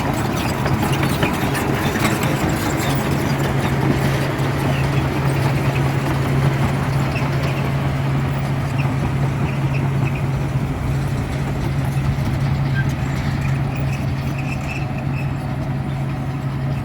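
Heavy diesel engine of earthmoving machinery running steadily with a constant low drone.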